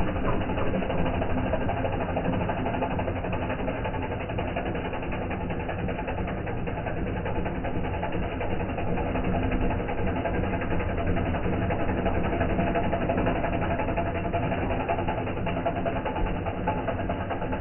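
New Holland tractor's diesel engine running steadily, with a rapid, even mechanical clatter.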